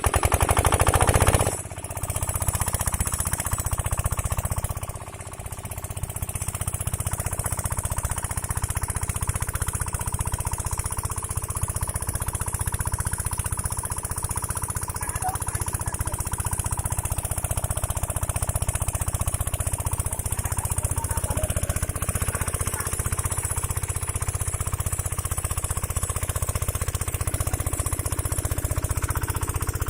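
Diesel engine of a water pump set running steadily with a rapid, even beat, with two brief dips in level in the first few seconds.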